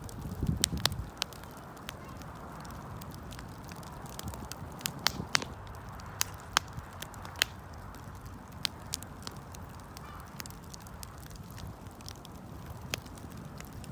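Wood fire crackling: irregular sharp pops and snaps, some loud, over a steady low rush of burning. There are a few low bumps just after the start.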